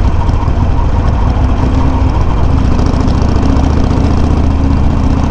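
Harley-Davidson Sportster 883's air-cooled V-twin running steadily at low revs, close-miked, heard through Customer exhaust tips with the low baffle fitted.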